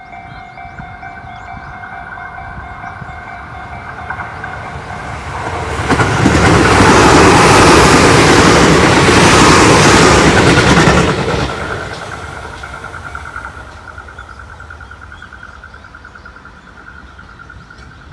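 A Tobu 8000-series electric commuter train approaching and passing close at speed: the wheel and rail rumble grows, is loudest for about five seconds from about six seconds in, then fades as the train goes away.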